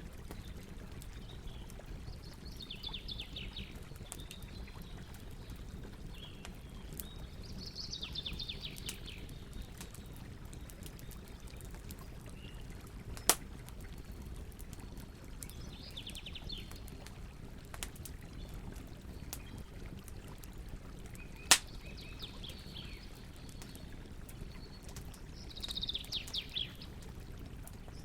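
Campfire crackling over a steady low hiss, with two sharp loud pops and scattered small ticks. A bird calls five times in short rapid trills.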